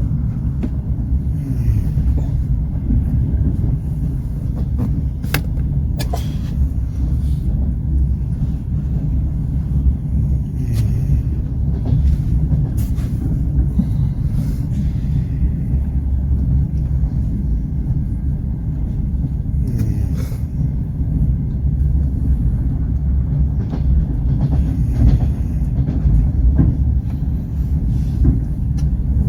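Passenger train carriage in motion: a steady low rumble of wheels on the rails, with a few sharp clicks and knocks here and there.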